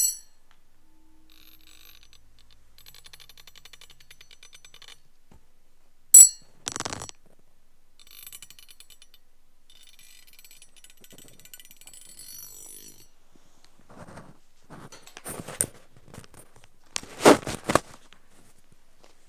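Ear pick scraping and rattling in an ear canal, close to the microphone: faint scattered crackles and scratches, a sharp click about six seconds in, and louder rasping scrapes near the end.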